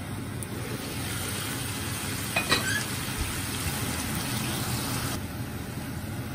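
King prawns sizzling steadily in a frying pan, with one brief clink about two and a half seconds in.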